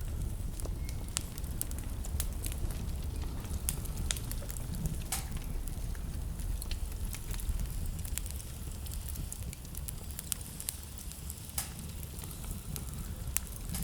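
Wood burning in a fireplace: scattered sharp crackles and pops over a steady low rumble.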